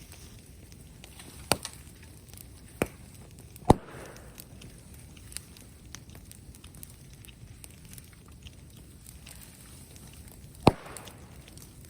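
Wood fire burning with a steady low crackle, broken by a handful of sharp loud pops, the two biggest about four seconds in and near the end.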